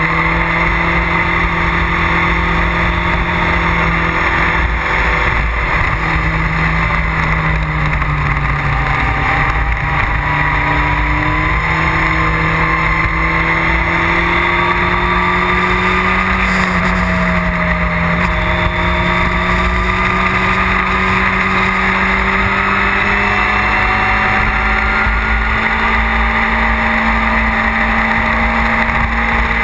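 Motorcycle engine running at steady road speed, its pitch drifting slowly up and down with the throttle, over a constant low rumble.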